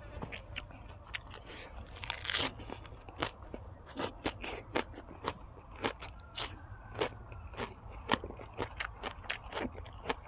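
A person chewing and crunching food close up: irregular crisp crunches, about two to three a second, with a longer, louder crunch about two seconds in.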